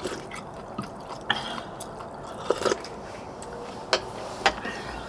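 Wet, close-up eating sounds of spicy braised monkfish being chewed, with several short sharp clicks about a second apart.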